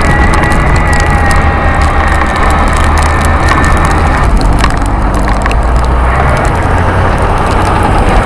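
Wind buffeting the microphone of a camera on an electric bike riding fast through snow: a loud, steady rumble with a dense crackle of small clicks. A faint whine sits above it, with one tone gliding slightly down early on.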